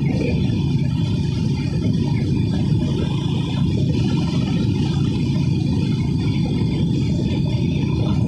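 Motorcycle engine running at a steady cruising speed, heard from on the moving bike as a steady drone with road noise.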